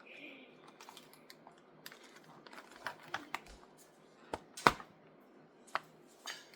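Irregular light clicks and taps from hands working at a toy's plastic packaging, with one louder snap a little before five seconds in.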